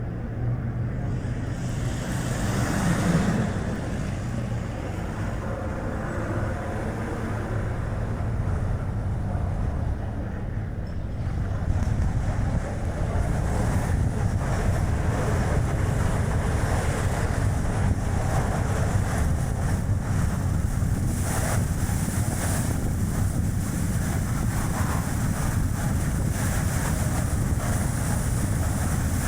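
Strong wind rushing over the microphone mixed with tyre and road noise from a moving Chevrolet Spark light car; the rush gets louder about a third of the way in and then holds steady.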